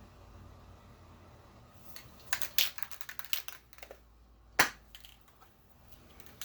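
A quick run of clicks and light scrapes from small hard objects being handled, then one sharp click, the loudest sound, over a faint low hum.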